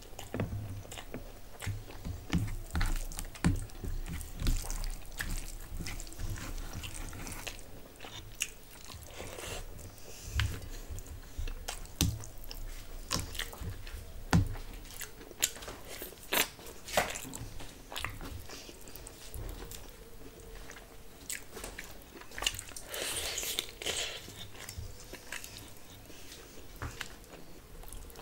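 Close-miked eating sounds: steady wet chewing with irregular crunches and clicks, as rice, fried onions and meat curry are chewed, mixed by hand and eaten.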